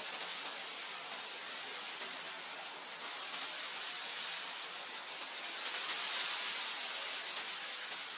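Wind blowing across grassland, a steady hiss that swells louder about six seconds in.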